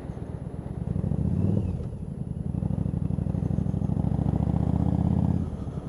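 Yamaha V-Star 1100's V-twin engine running under the rider, pulsing steadily. It swells briefly about a second in, then pulls harder and holds a steady, stronger note for about three seconds before easing off near the end.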